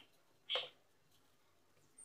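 A single short bird chirp about half a second in, over a faint background.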